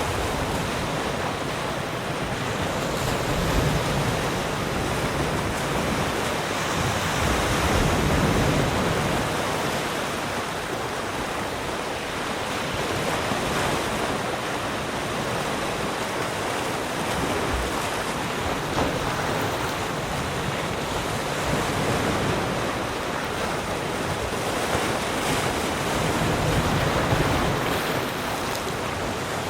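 Ocean waves breaking and washing on a shore, a continuous surf noise that swells and eases gently every few seconds.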